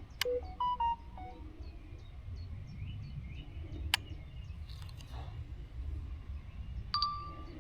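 Small birds chirping in quick repeated notes over a low steady rumble of wind. There are a few short beeps just after the start, and a longer steady beep near the end.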